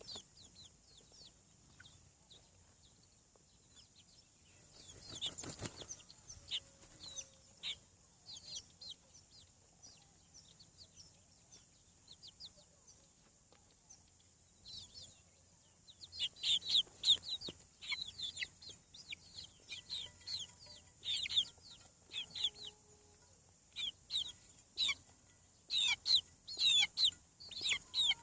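Young chicks peeping: short, high, falling cheeps, scattered at first and then coming in quick flurries from about halfway through. A brief rustling noise about five seconds in.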